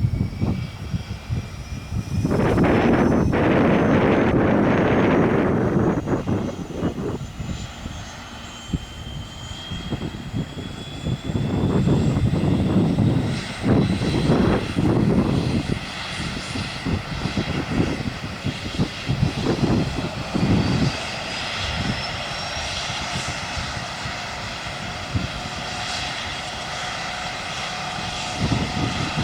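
Aerospatiale AS332L1 Super Puma helicopter's turbine engines running, a high whine slowly rising in pitch, with irregular loud surges of low rumble.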